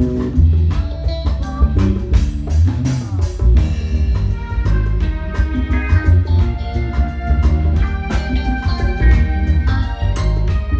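Live band playing with drum kit, bass and guitar, with a steady beat and strong bass.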